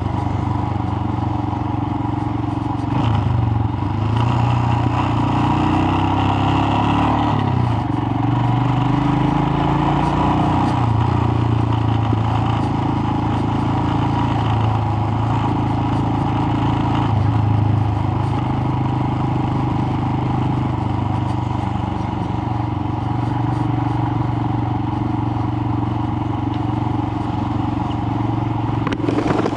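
Royal Enfield Himalayan single-cylinder engine running while the bike is ridden, its note shifting up and down a few times in the first dozen seconds and then holding fairly steady.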